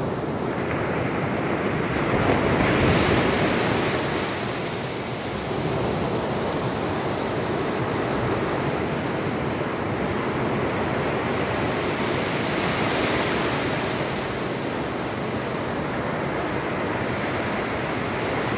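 Ocean surf breaking on a beach, a continuous wash of waves that swells louder about three seconds in and again around thirteen seconds.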